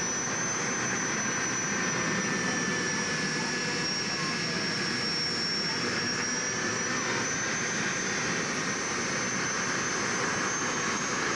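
Gas-turbine engine of a pulling tractor running steadily, a constant rushing noise with a high thin whine over it that drifts slightly in pitch.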